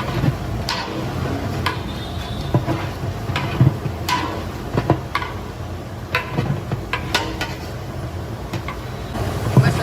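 A metal ladle stirring food in a large cooking pot, scraping and knocking against the sides at irregular intervals, over a steady low rumble and hiss.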